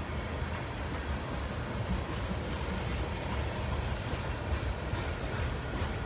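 Freight train tank cars rolling past: a steady low rumble of steel wheels on rail, with scattered clicks and clacks as the wheels cross the rail joints.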